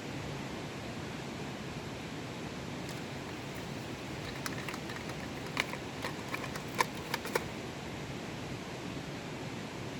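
Steady rushing noise, with a scattering of light clicks and taps from about four to seven and a half seconds in.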